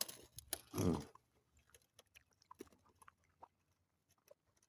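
A person chewing food with the mouth close to the microphone: a short low grunt about a second in, then soft wet clicks of chewing.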